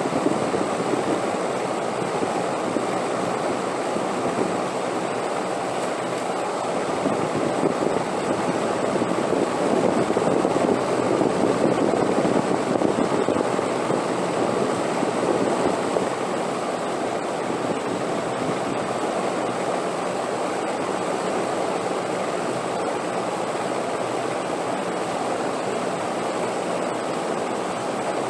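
Wind blowing steadily, a rushing noise that swells somewhat about a third of the way through and then settles back.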